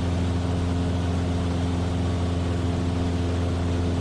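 Cessna 172F's six-cylinder Continental O-300 engine and propeller droning at a steady power setting, heard from inside the cabin.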